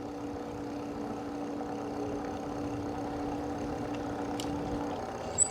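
Electric bike motor humming steadily at cruising speed, over tyre and wind noise; the hum cuts off about five seconds in as the rider eases off to stop.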